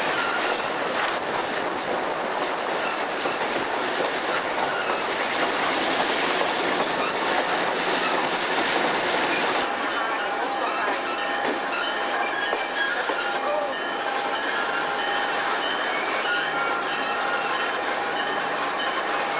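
Passenger train of the Chihuahua–Pacific railway running, heard from a carriage window: a steady rolling rush of wheels on track. About halfway through the rush eases and thin, steady high squealing tones from the wheels come in.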